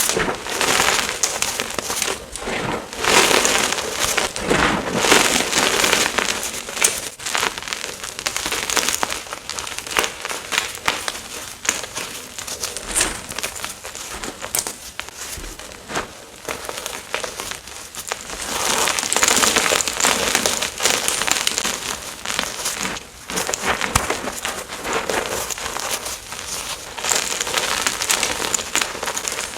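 Gym chalk chunks being crushed and crumbled, a dense run of crunchy crackles that grows louder a few seconds in and again about two-thirds of the way through.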